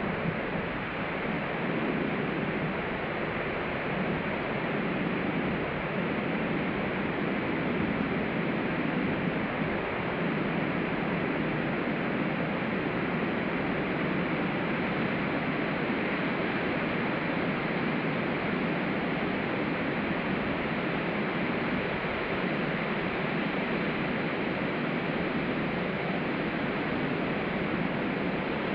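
Ocean surf washing onto a beach, a steady continuous roar of breaking water with no single crash standing out.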